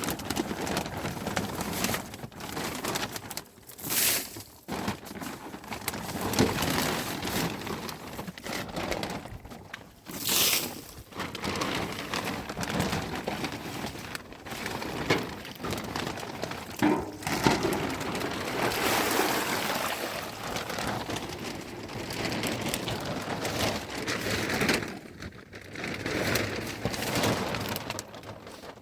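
Rain falling on a surface, a steady hiss that swells and fades, with two brief louder rushes about four and ten seconds in.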